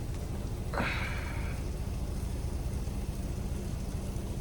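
Steady low hum of an idling semi-truck engine, with a brief hiss about a second in.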